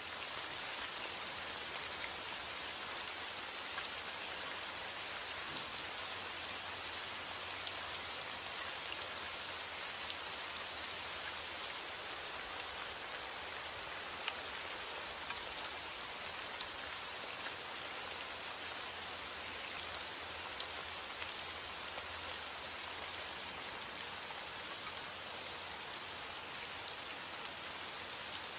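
Steady heavy rain: a constant hiss of rainfall with many small drop ticks scattered through it.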